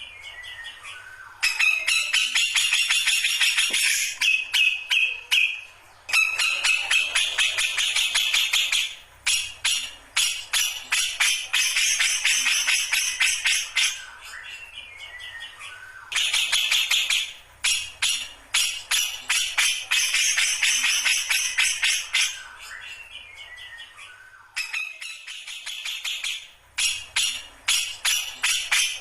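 Grey-cheeked bulbul (cucak jenggot) singing: runs of fast, jingling chatter lasting several seconds each, broken by short pauses that hold a few falling whistled notes.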